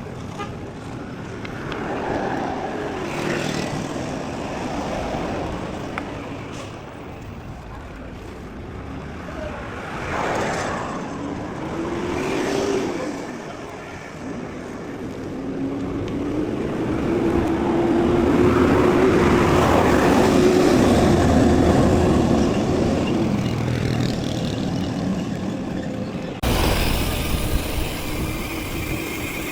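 Mountain bike ride noise picked up by a chest-mounted camera: wind on the microphone and tyres rolling over the trail, growing louder past the middle, with an abrupt change near the end.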